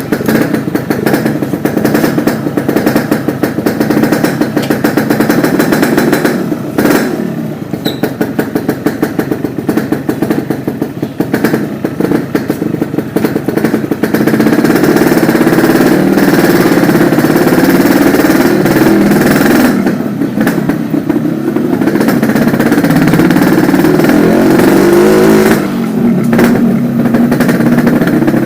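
Yamaha RX-King two-stroke single-cylinder engine running through an exhaust with the stock silencer. It is blipped repeatedly for the first half, then held at higher revs with the pitch rising and falling, with a brief drop in revs near the end.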